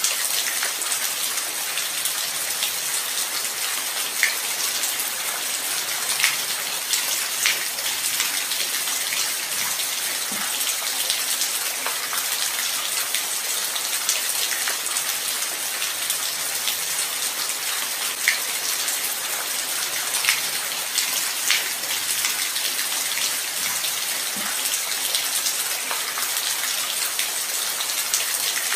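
Steady light rain: an even hiss with individual drops ticking here and there.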